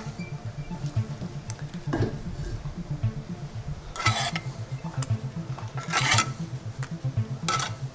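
Steel bricklaying trowel scraping and clinking on mortar and brick: three sharp scrapes with a short metallic ring, starting about halfway through and roughly a second and a half apart.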